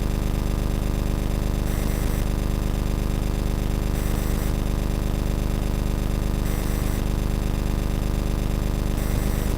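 A steady, loud buzzing hum with an even hiss over it, and a rush of higher hiss that comes back about every two and a half seconds. This is the strange sound the camera picked up after a crystal was set in the centre of the mound.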